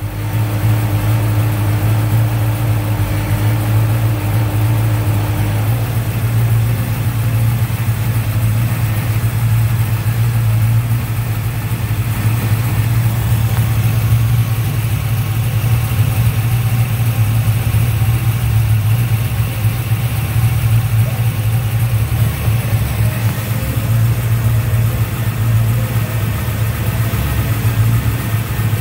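Car engine idling steadily at about 800 to 900 rpm, heard under the open hood. A faint steady whine sits over it for the first five seconds or so, then stops.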